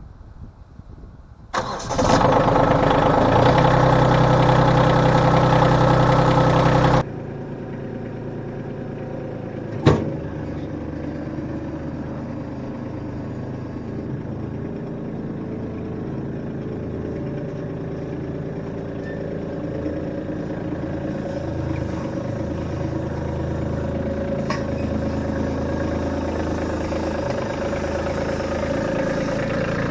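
An engine starts up and runs loudly; after a sudden cut an engine idles steadily, slowly getting louder, with one sharp click partway through.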